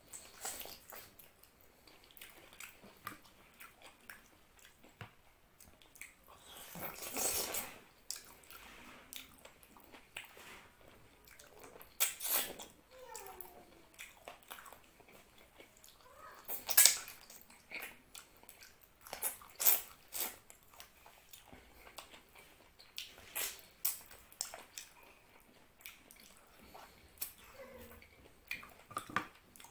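Close-miked chewing of mutton curry and rice eaten by hand: irregular wet mouth clicks and smacks, with a longer, louder wet stretch about seven seconds in.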